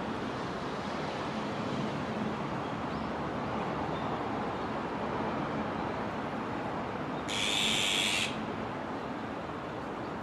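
Azure-winged magpie giving one harsh, raspy call lasting about a second, about seven seconds in, over a steady background rush.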